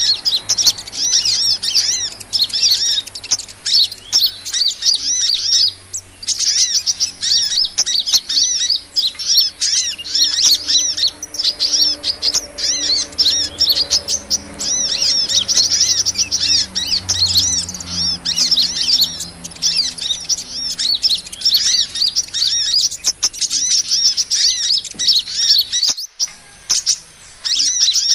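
Small songbirds twittering in quick, high, overlapping chirps without pause, a dense chorus of calls. It is a bird-trapping lure recording meant to draw in small birds such as sunbirds.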